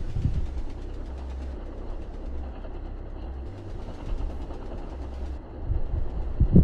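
Blizzard wind buffeting the microphone: an uneven low rumble that comes in gusts, growing stronger near the end.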